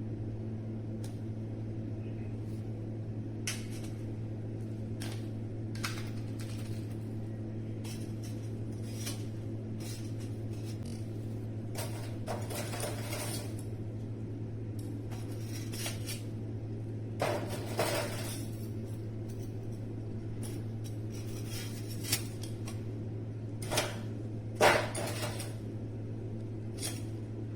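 Dishes and utensils being handled: scattered clinks and knocks, a few louder ones in the second half, over a steady low hum.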